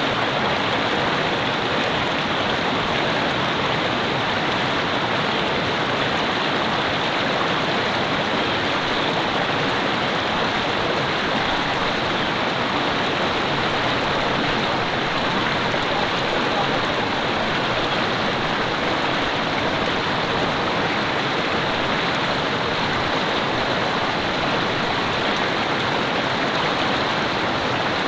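Mountain river or stream flowing over rocks: a steady, even rush of running water.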